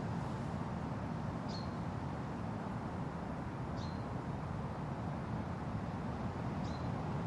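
Steady wind rustling through forest trees, with a bird giving a short, high call three times, about two to three seconds apart; each call is a quick downward sweep that ends in a brief clear note.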